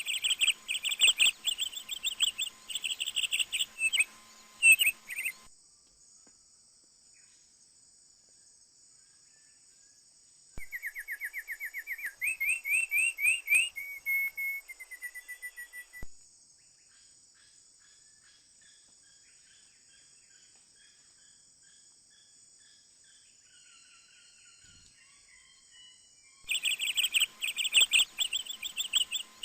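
A bird calling in three bursts of rapid, repeated chirps: one at the start, one around the middle with quickly rising notes, and one near the end. A steady high insect drone runs underneath.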